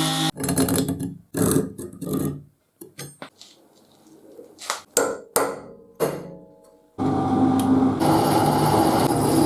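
A hammer striking the steel of a railway-track section, about nine separate blows at an uneven pace, some leaving a short metallic ring. About seven seconds in, a steady machine noise takes over.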